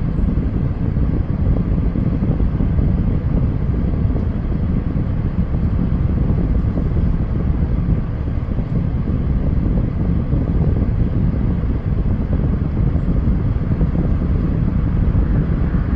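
Steady low rumble of car and wind noise.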